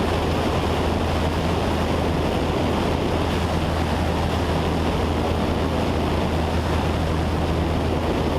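Cessna 172's piston engine and propeller droning steadily in flight, heard inside the cabin with a wash of air noise.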